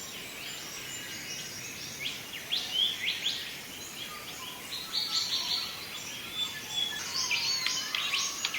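Wild birds calling in a run of short, high chirps and quickly rising whistles, several a second, busier in the last second or two, over a faint steady hiss.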